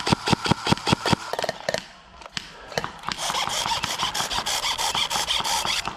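Airsoft gun firing: a quick string of evenly spaced shots in the first second, then after a short lull a longer, faster rasping run of shots from about three seconds in.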